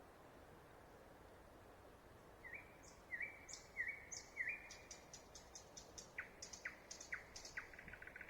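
A songbird singing at night, faint over a steady background hiss, which the recordist takes, unsure, for a nightingale. About two seconds in, a varied phrase begins: four repeated clear notes, then a quick run of sharp clicking notes, a few down-slurred notes and a fast rattling trill at the end.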